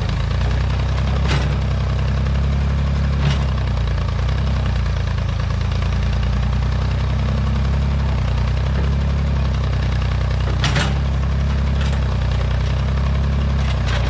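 Old Massey Ferguson tractor-loader-backhoe engine running steadily, with a few sharp knocks or clanks over it, the loudest about ten seconds in.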